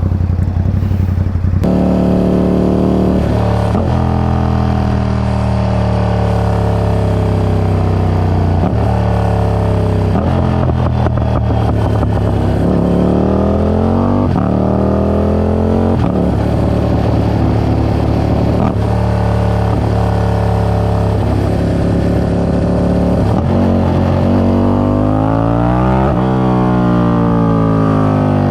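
Ducati Supersport 950 S's 937 cc L-twin engine through an aftermarket Competition Werkes exhaust, under way. The engine note climbs again and again, then drops sharply as the rider shifts, with steadier cruising stretches between the pulls. The rider calls it sounding "so good".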